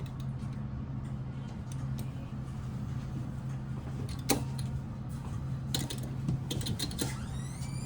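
Otis passenger elevator heard from inside the cab: a steady low hum, with a sharp click about four seconds in and a short run of clicks and ticks near the end.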